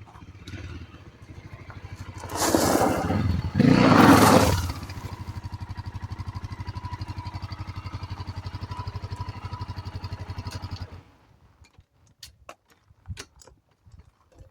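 Honda XR600R's big single-cylinder four-stroke engine running: blipped twice, then idling with a steady fast thump before it is shut off about 11 seconds in. A few light clicks follow.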